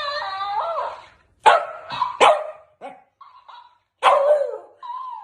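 A dog gives a long, wavering call for about a second, then barks several times in short, sharp bursts.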